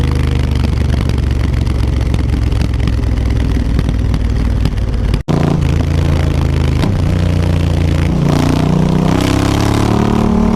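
Honda Africa Twin CRF1000's parallel-twin engine running through an Akrapovič exhaust, heard on board with wind noise, holding steady and then pulling up through the revs with rising pitch from about eight seconds in. The sound cuts out for an instant about halfway.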